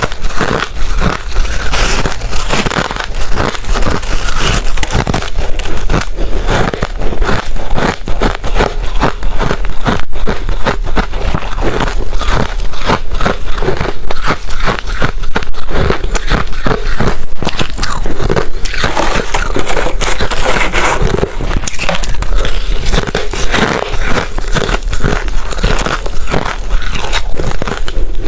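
A person biting and chewing hard crushed ice close to the microphone: dense, continuous loud crunching and crackling.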